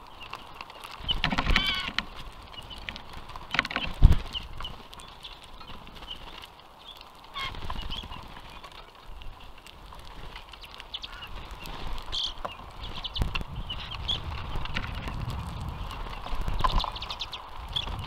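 Birds at a platform seed feeder: scattered short chirping calls over small clicks and taps of pecking at seed on the wooden tray, with one sharp knock about four seconds in.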